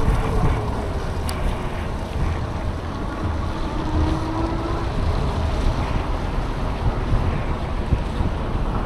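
Wind buffeting the microphone of a cyclist riding in traffic, a steady rumbling rush of air and road noise. A faint short whine sounds about four seconds in.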